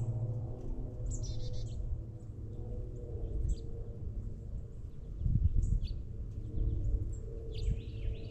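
Small songbirds chirping and calling at the feeders, with a quick trill of repeated notes about a second in and scattered short chirps after. Underneath is a steady low hum, with a louder low rumble about five seconds in.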